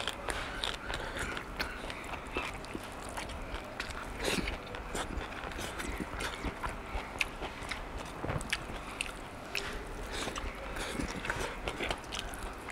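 Close-up eating sounds: a man chewing and smacking his lips on a mouthful of rice and stir-fried water spinach eaten by hand, many short irregular clicks and smacks with soft handling of food on the plate between mouthfuls.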